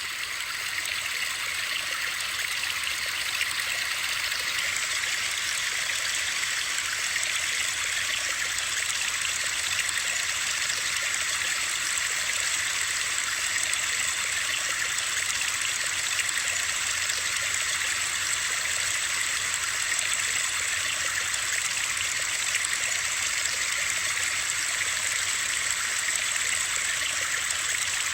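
Steady white noise: an even, high hiss that holds unchanged throughout, with a running-water character.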